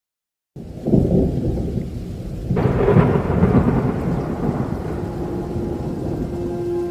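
Thunder rumbling in a rainstorm: a low rumble starts about half a second in, and a louder, sharper peal breaks about two and a half seconds in, then rolls away. A steady low held note comes in about five seconds in.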